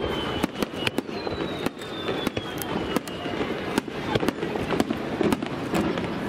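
A Japanese starmine barrage: aerial firework shells bursting in quick succession, sharp bangs coming two or three a second. About a second in, a high whistle slides slowly down in pitch for a couple of seconds.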